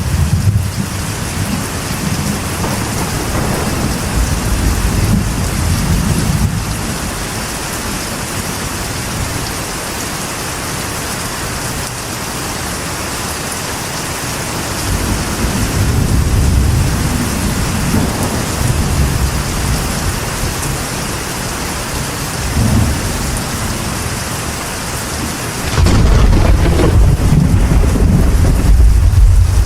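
Steady rain falling on a metal roof, with thunder rumbling: low rolls in the first several seconds and again about halfway through, then a louder rumble that sets in suddenly near the end.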